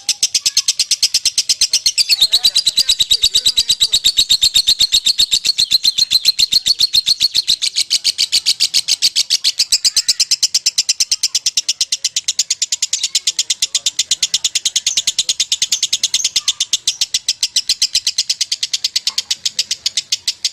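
Lovebird singing a long 'ngekek' chatter: a rapid, unbroken string of high, shrill chirps, evenly repeated for the whole stretch without a pause.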